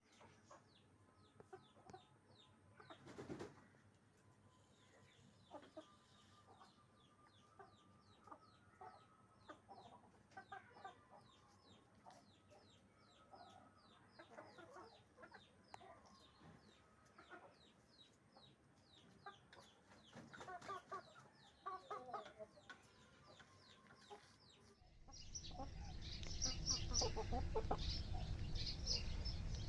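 Aseel chickens clucking softly, with many short, high calls through most of it. About 25 seconds in, a louder steady noise comes up under the calls.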